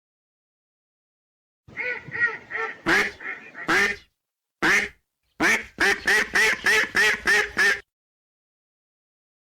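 Ducks quacking: a string of quacks starting about two seconds in, ending in a quick run of about eight quacks at roughly four a second.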